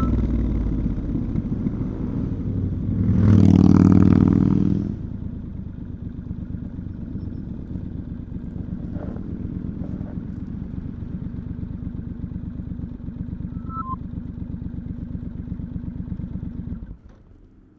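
Stock 2019 Triumph Scrambler 1200 XE parallel-twin engine and exhaust, with a brief louder surge about three seconds in, then settling to a steady even idle before being switched off near the end.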